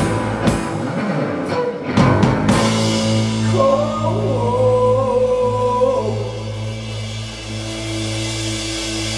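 Live rock band playing: drum hits for the first couple of seconds, then the band holds a sustained chord, with a long held melodic line over it in the middle.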